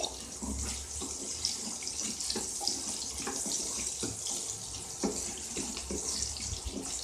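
Shallots sizzling in oil in a kadai as they fry towards pink, a steady hiss, with scattered light knocks and scrapes from stirring.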